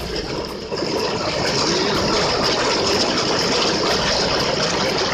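Traffic on a flooded road: vehicle engines running under a steady rush of water noise.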